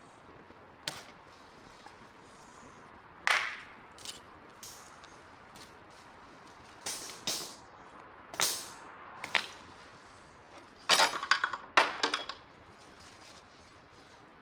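Wood campfire burning, with scattered sharp pops and cracks from the firewood, several in quick succession near the end.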